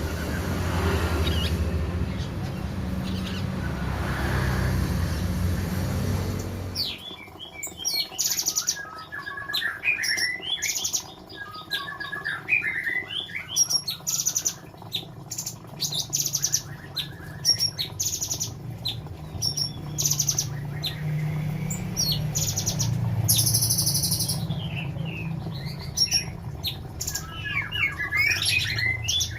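A cucak cungkok songbird chirping and twittering in rapid bursts of short, high calls, starting about seven seconds in after a stretch of low rumbling noise.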